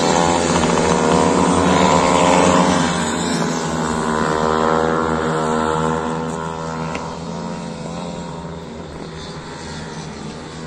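Pitbike engine revving, its pitch rising and falling repeatedly as the throttle is worked, a little quieter in the second half.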